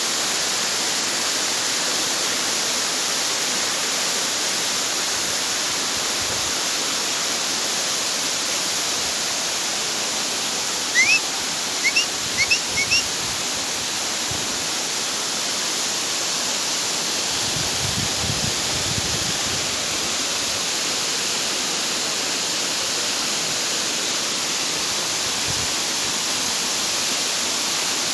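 Steady rush of falling water. Near the middle, about five short rising chirps come in quick succession.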